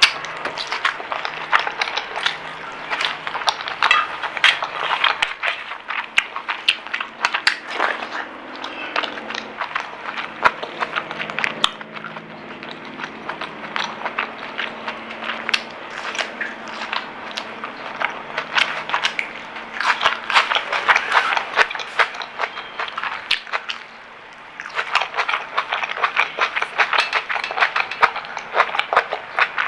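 Close-miked chewing and crunching of crisp fried food, a dense run of quick crackling bites and chews, with a brief lull a little before the end.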